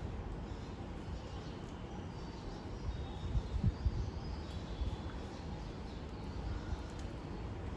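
Lovebirds giving a few faint, high, short chirps over a steady low rumble.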